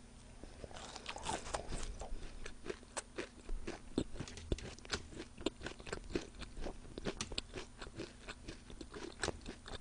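Close-miked chewing of raw onion slices, with many irregular, crisp crunches.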